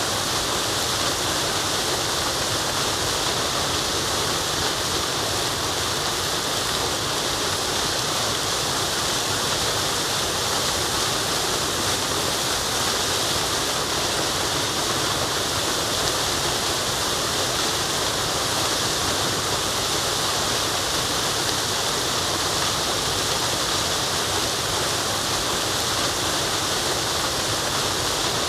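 Steady rush of a waterfall, an even hiss of falling water without breaks or changes.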